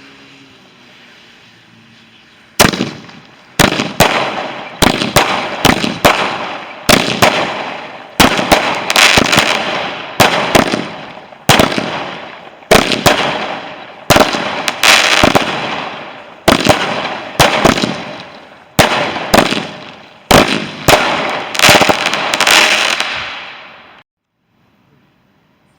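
A firework barrage going off in a long, rapid series of loud bangs, about one or two a second, each trailing off before the next. The series cuts off suddenly near the end.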